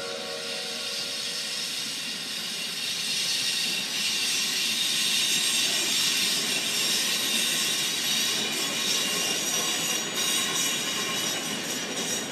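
Electric passenger train running along the track, a steady rail hiss with faint high thin tones over it.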